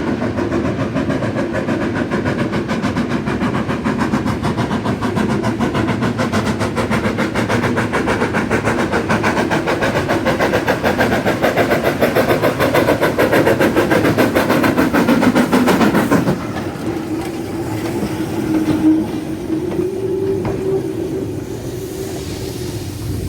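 Locomotive working past with a rapid, even beat that cuts off suddenly about sixteen seconds in, leaving a quieter steady hum that rises slightly in pitch.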